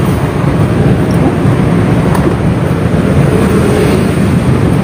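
Motorcycle engine running at low speed: a steady, loud, low-pitched noise.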